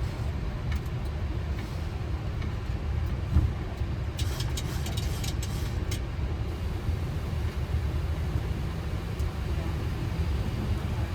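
Steady low rumble inside a Boeing 737 flight deck as the airliner taxis, with a single knock about three seconds in and a few faint clicks soon after.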